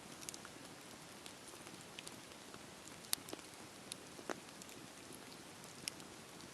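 Campfire crackling: a steady low hiss with scattered, irregular sharp pops and snaps, the loudest about three seconds in.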